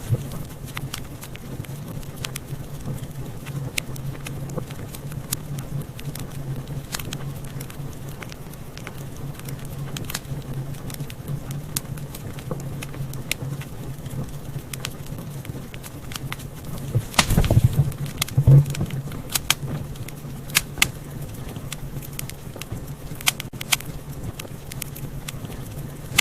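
Wood fire crackling in a fireplace: irregular sharp pops and snaps over a low steady rumble, with a louder flurry of pops about two-thirds of the way through.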